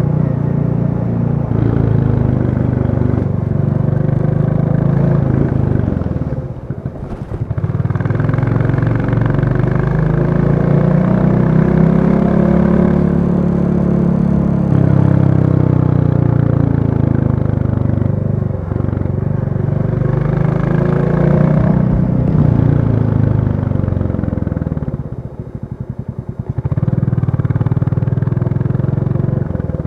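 Royal Enfield Classic 350's single-cylinder engine running under way, its pitch rising and falling as the rider opens and eases the throttle. Twice, about six seconds in and again near the end, it drops off to slow, separate thumps before pulling again.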